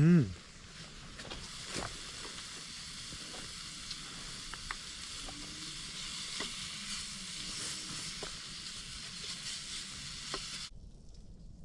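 Bacon sizzling in a frying pan: a steady frying hiss with scattered small pops that cuts off suddenly near the end. A short, loud, low vocal sound falling in pitch opens it.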